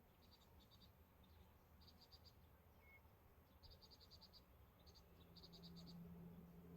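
Faint insect chirping, in short rapid trains of high pulses repeating every second or so. A low steady hum comes in about five seconds in.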